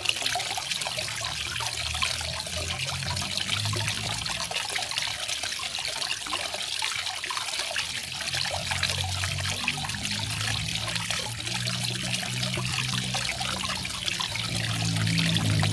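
Garden waterfall: water falling and splashing steadily, with an uneven low rumble beneath.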